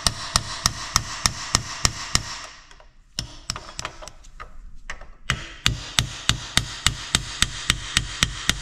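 A hammer repeatedly tapping a chisel against a seized, rusted part in a Detroit Diesel governor housing, about three sharp metal strikes a second with two brief pauses, to work it loose.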